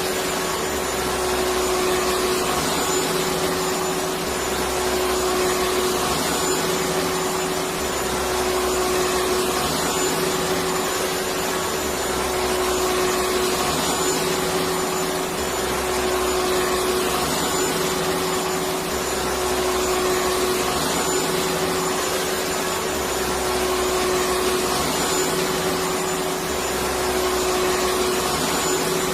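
Electric vacuum cleaner running steadily: a rushing hiss of air with a steady motor whine, and a low hum that swells and fades every few seconds.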